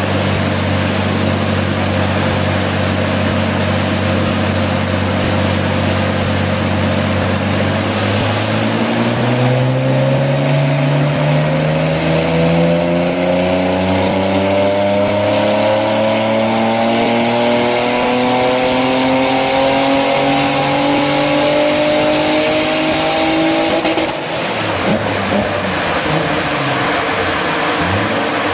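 Twin-turbo Nissan 350Z 3.5-litre V6 running on a hub dyno: it holds a steady speed, then from about eight seconds in climbs steadily in pitch through a long full-throttle pull of some fifteen seconds. About twenty-four seconds in the pull is cut and the engine drops back, over a steady rushing noise.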